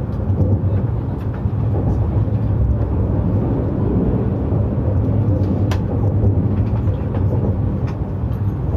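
Narita Express E259-series train running at speed, heard from inside the passenger cabin: a steady low rumble with a sharp click about two-thirds of the way through.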